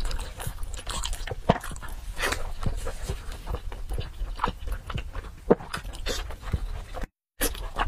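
Close-miked biting and chewing of braised pork knuckle skin: irregular smacks and clicks of the mouth working the meat, cutting out briefly about seven seconds in.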